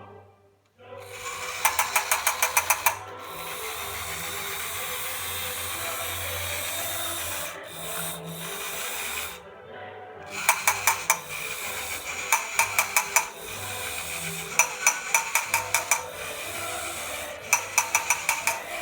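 Battery-operated tin toy tractor running, its small electric motor and gears making a steady whir. Short bursts of rapid clicking, about eight clicks a second, come in five times. The sound cuts out briefly near the start and twice more in the middle.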